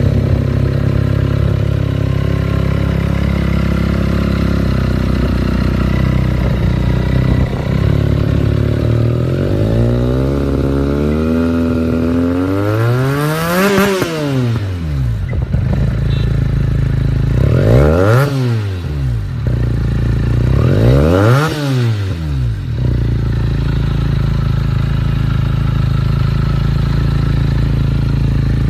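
Benelli TNT 300's parallel-twin engine with an aftermarket exhaust idling, then revved: one slow rev that climbs to a peak about 14 seconds in and drops back, then two quicker blips of the throttle, before it settles back to a steady idle.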